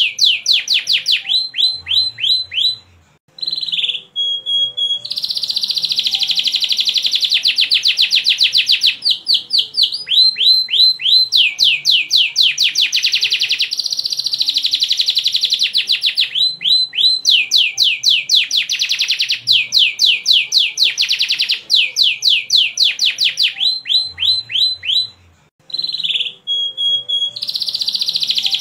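Domestic canary singing a long, continuous song of fast repeated chirps and dense trills, with two brief pauses each followed by a short steady whistled note.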